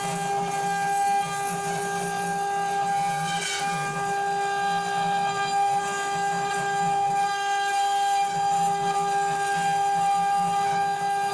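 CNC router spindle running with a steady high whine while a fine ball-nose cutter mills brass, with a lower hum underneath that swells and fades. A brief brighter hiss rises about three and a half seconds in.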